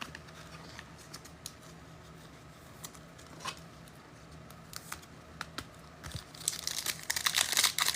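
Trading cards and plastic pack wrappers being handled: scattered faint clicks and rustles at first, then crinkling that grows busier and louder from about six and a half seconds in, as a pack is opened.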